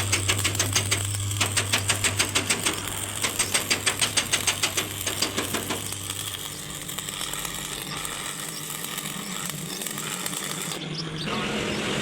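Rapid, regular mechanical knocking, about five strikes a second, over a steady low hum. About six seconds in, the knocking stops and a quieter, steady mechanical noise carries on.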